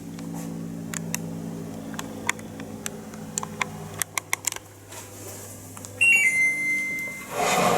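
Midea DC inverter split air conditioner humming steadily, with scattered sharp clicks over it. About six seconds in the hum cuts off and a two-step electronic beep sounds for about a second, followed by a rush of noise near the end.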